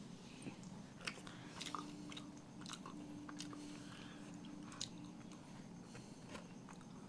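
A person chewing a mouthful of soft butterscotch cream pastry with the mouth closed. The chewing is faint, with soft wet mouth clicks and smacks every second or so.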